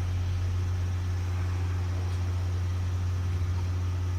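Chichibu Railway limestone freight train moving, heard as a steady low hum over an even noise that does not change.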